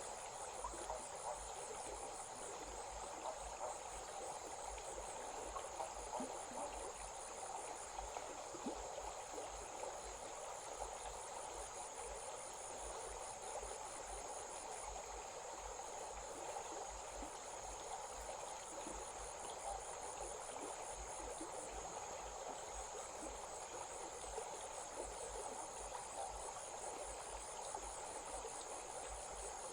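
A stream flowing steadily, with insects trilling continuously in a high, even chorus above it.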